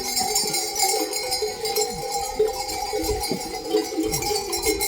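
Many bells worn by a grazing flock of sheep or goats clanking and jingling continuously, a dense overlapping ringing.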